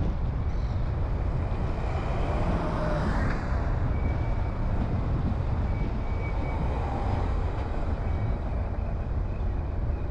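Road noise of a car being driven: a steady low rumble of tyres and engine, with a broader swell of noise about three seconds in.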